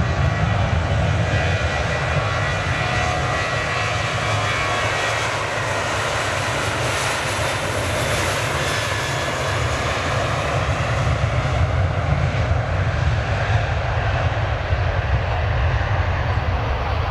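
Airliner engines running as a plane passes close by, a steady rumble with a high hiss that swells near the middle and fades again towards the end.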